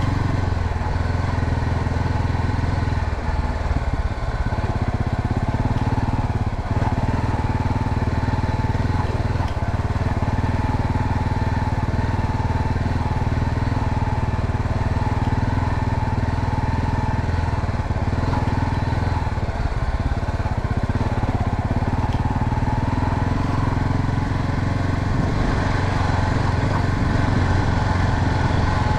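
Honda Sahara 300's single-cylinder engine running steadily while the motorcycle is ridden at an even pace.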